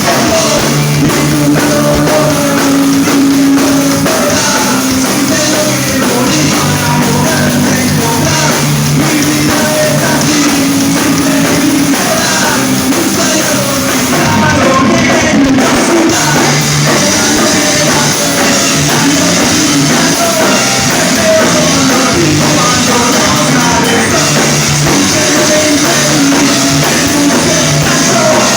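Rock band playing loud and steady in concert, with a drum kit and a singer over the instruments.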